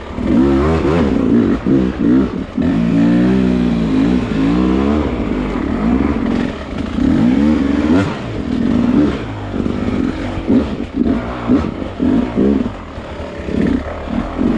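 Beta hard enduro dirt bike engine revving up and down over and over as the throttle is worked on a rocky climb, with a sharp knock about eight seconds in.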